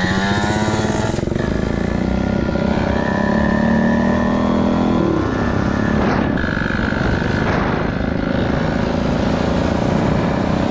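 Small pit bike engine running under way, its pitch climbing as the throttle opens, climbing again and then dropping sharply about five seconds in, then holding fairly steady.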